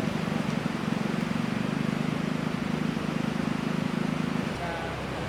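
A small engine running steadily, which cuts out about four and a half seconds in, leaving a lower hum.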